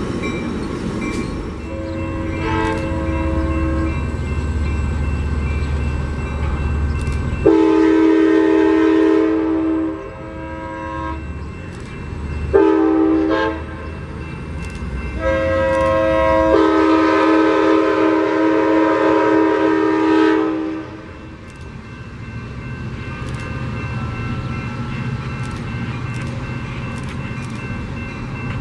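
Passenger train locomotive's multi-chime air horn sounding two long blasts, a short one and a final long one, the grade-crossing signal, the first blast fainter than the rest. A low rumble of the engine and wheels runs under it, and faint wheel clicks follow near the end.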